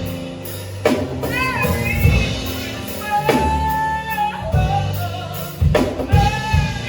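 Live gospel-style band music: a singer holding wavering notes over bass and a drum kit, with regular drum hits.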